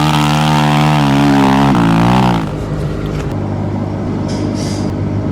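Dirt bike engine held at high revs with a steady pitch, then dropping off about two seconds in to a lower, steady running note.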